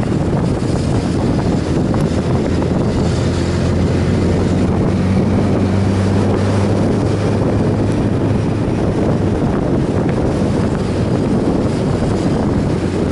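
Heavy wind rushing over the microphone at riding speed over a motorcycle engine's steady drone. The engine note holds steady for a few seconds in the middle, then sinks back under the wind.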